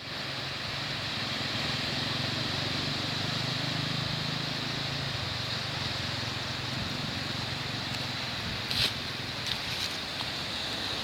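Steady rush of sea and wind with a low hum underneath that fades out about seven seconds in, and a sharp knock about nine seconds in.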